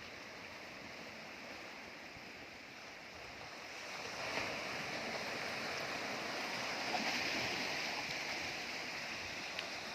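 Sea waves washing onto the shore, a steady rushing wash that grows louder about four seconds in.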